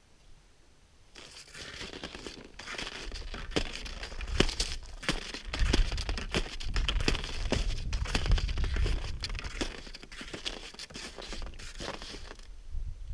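Close crinkling and crunching with many sharp clicks, like material being handled right at the microphone, starting about a second in and stopping near the end. A low rumble runs under it through the middle.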